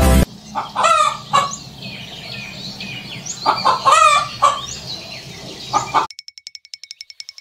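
Chicken calling in loud clucking bursts, one about a second in and a longer run around four seconds in, after music cuts off right at the start. Near the end comes a rapid, even chirping of about ten ticks a second.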